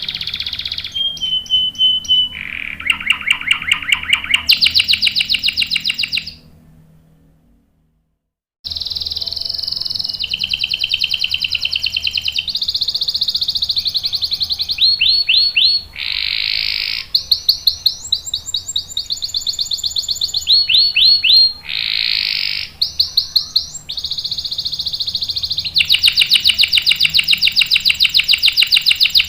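Domestic canary singing long rolling phrases of rapid trills and fast repeated notes, changing from one trill to the next every second or two. The song fades out for about two seconds early on, then picks up again.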